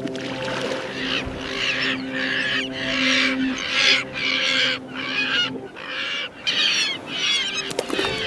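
A flock of birds calling: dense, overlapping squawking calls in quick repeated waves, over a steady low hum.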